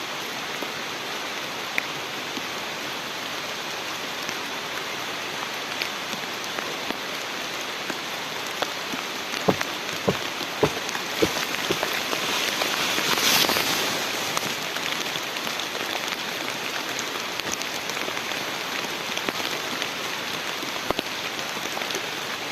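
Steady rain falling, with a few sharp drips or taps about ten seconds in and a short swell in the rain's hiss soon after.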